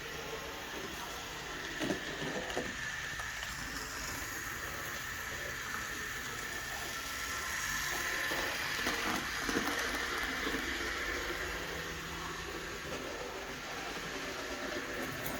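Model Power 0-4-0 Fatboy model steam locomotive pulling two carriages around its track: a steady whirring run of the small motor and wheels on the rails, growing somewhat louder about eight seconds in, with a few sharp clicks near two seconds and again near ten seconds.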